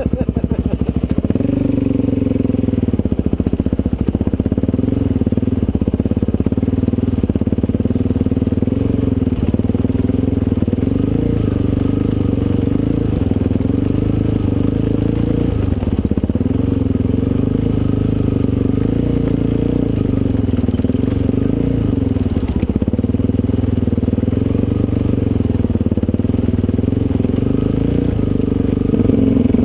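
Suzuki DR-Z400SM supermoto's single-cylinder four-stroke engine running at low, fairly steady revs, easing off briefly a couple of times.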